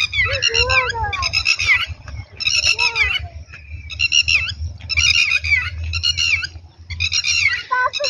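A bird calling over and over, shrill calls in short bursts about once a second, with wind rumbling on the microphone.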